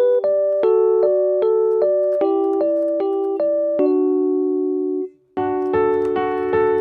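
Relaxing piano music: a slow melody of single struck notes over held lower notes. It breaks off for a moment about five seconds in, then comes back fuller.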